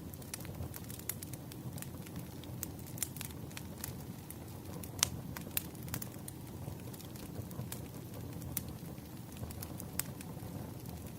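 Campfire burning: a steady low rumble of flames with frequent sharp crackles and pops of burning wood, one louder pop about five seconds in.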